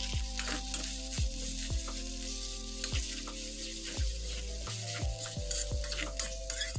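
Spice paste sizzling in hot oil in a wok as it is sautéed until fragrant, with a metal spatula stirring and scraping against the pan.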